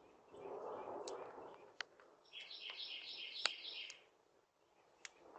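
Scattered sharp crackling clicks from a rabbit's wriggling nose, a crackle likened to a crackling fire, with a soft rush of breathy noise early on. A bird chirps quickly over and over for a couple of seconds in the middle.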